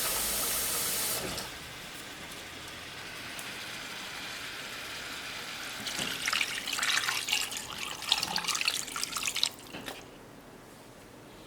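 Water running from a kitchen tap, shut off about a second in. A few seconds of irregular splashing and handling noise follow.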